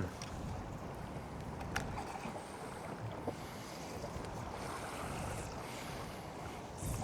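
Steady wind and water lapping around a small drifting boat, with a couple of faint clicks.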